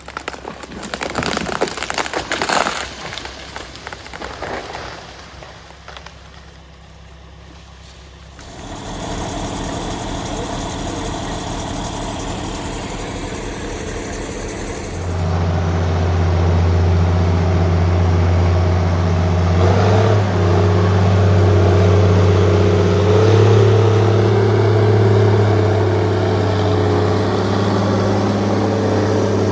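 Heavy diesel engine of logging equipment running steadily, growing much louder and deeper about halfway through. It follows a few seconds of rough rushing noise at the start.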